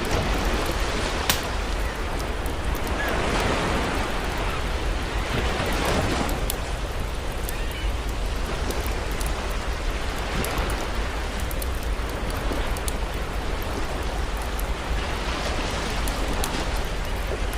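Campfire crackling with scattered sharp pops over the wash of sea waves, which swell and fall back every few seconds.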